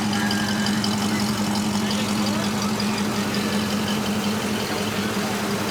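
A vehicle engine idling steadily with an even, unchanging hum.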